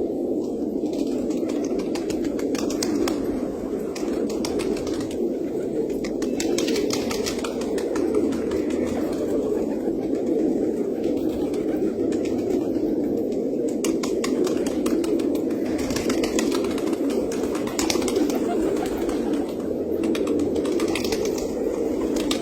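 Many pigeons cooing at once, a steady dense chorus of low coos with scattered light clicks.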